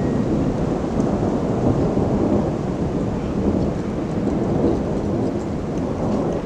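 Thunder rumbling in a long, continuous low roll with no sharp crack, over the sound of rain falling.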